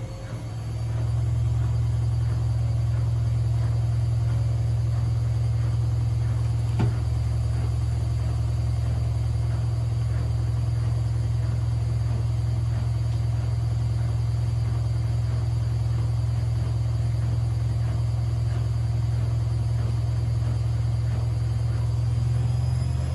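Privileg washing machine spinning: a steady low hum from the drum at speed, building up in the first second and dropping away near the end, with a single brief click about seven seconds in.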